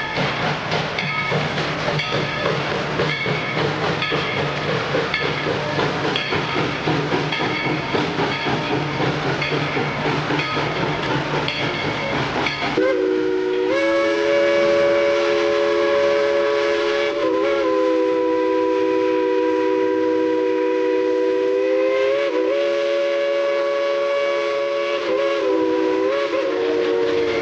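Steam locomotive No. 190, a narrow-gauge 2-8-2, running with a steady rhythmic clatter. About halfway through, its whistle starts and is held for a long blast, several notes sounding at once, with a few brief dips in pitch.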